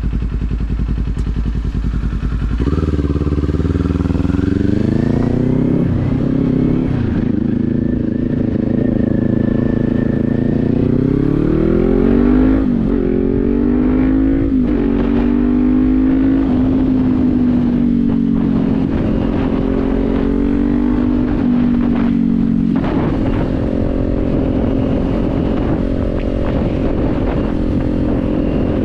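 Kawasaki Z400's 399 cc parallel-twin engine idling, then pulling away about three seconds in, revving up through the gears with several upshifts before settling into a steady cruise.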